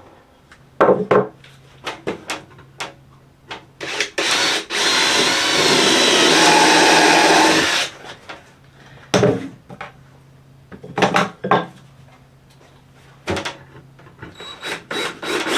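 Power drill driving a screw into a wooden board, running steadily for about three seconds in the middle. Scattered knocks and clicks of wood and tools being handled come before and after it.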